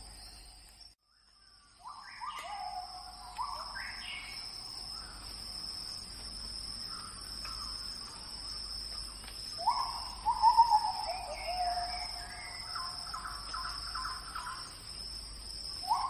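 A wild bird calling in short runs of notes that step down in pitch, loudest about ten seconds in, over a steady high-pitched insect drone. The sound cuts out briefly about a second in.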